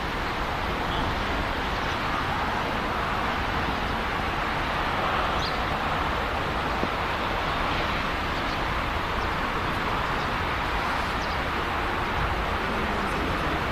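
Steady rumble and hiss of a moving vehicle, with no distinct beat.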